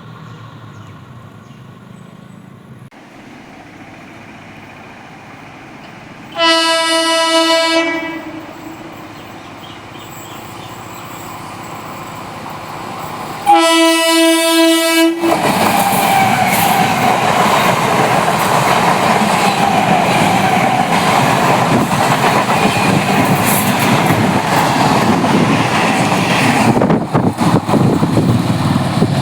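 Indian Railways electric train sounding its horn twice, a blast of about a second and a half and then one of about two seconds. It then passes close by, wheels clattering over the rails for about ten seconds, and the sound drops away near the end.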